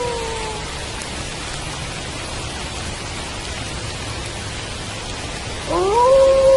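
Steady rain falling. A wolf's howl trails off, falling in pitch, just after the start, and near the end another howl sweeps up and settles into a long, steady held note.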